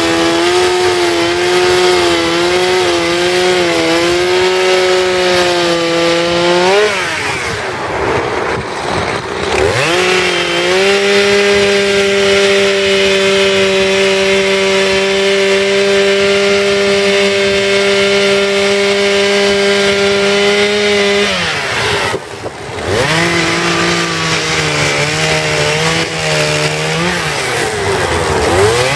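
Two-stroke chainsaw running at high revs, cutting into wood. The engine drops back three times, about 7 s, 22 s and 27 s in, for a second or two each, then revs back up.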